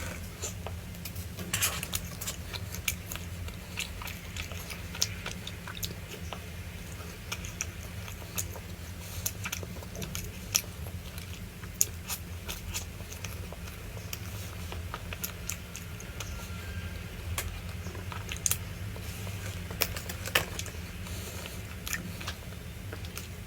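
Chewing and crunching of food: irregular sharp crunches and clicks over a steady low hum.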